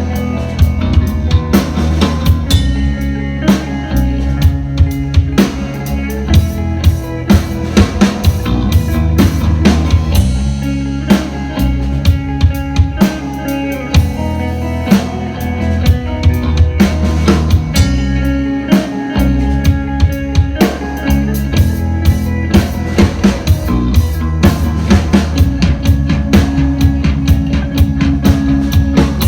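Live band playing an instrumental rock track with a driving drum kit, kick and snare hits over bass and sustained keyboard or guitar notes; the low end drops out briefly twice.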